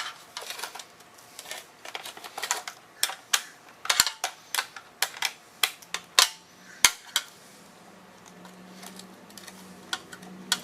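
Sharp metallic clicks and clinks of hand tools and hardware being worked on a motorcycle's rear fender. The clinks come irregularly, several a second, and stop about seven seconds in, leaving a faint steady hum.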